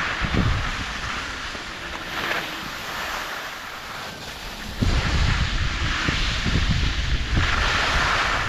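Wind rushing over the microphone of a camera carried downhill on skis, over a steady hiss of skis on wet snow; the low buffeting of the wind grows much louder about five seconds in.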